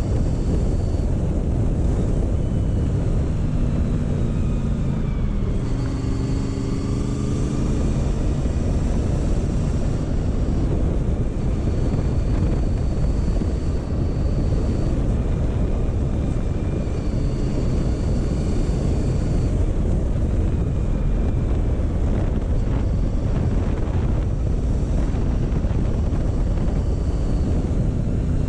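Motorcycle riding at a slow pace: steady wind rush on the microphone with the engine running underneath. The engine's pitch dips and then rises again about six seconds in.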